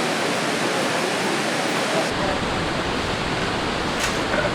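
Steady rushing noise of a large waterfall, Ouzoud Falls, heard close up. About two seconds in, the sound shifts: a deeper rumble comes in and the highest hiss falls away. There is a brief click near the end.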